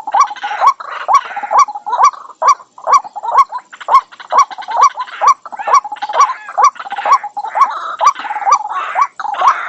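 White-breasted waterhen calling: a fast run of short, upward-hooked notes, about two a second, with harsher croaking calls mixed in between.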